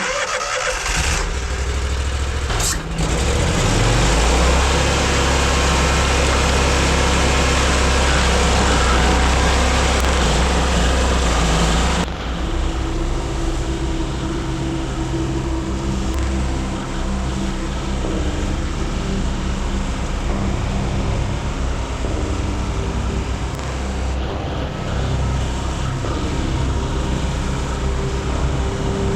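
Vermeer SC 382 stump grinder running: its engine revs up over the first few seconds, and the spinning cutter wheel grinds into the stump with a loud, dense noise. About twelve seconds in the grinding noise drops away, leaving a steadier engine drone with a whine.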